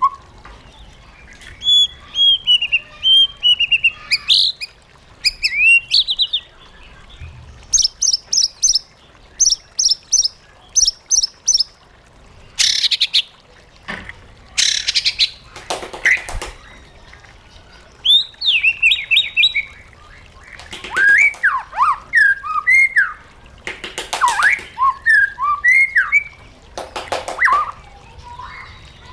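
White-rumped shama singing a varied song in separate phrases: clear whistles sliding up and down, quick runs of high repeated notes, and several harsh rasping notes, with short pauses between phrases.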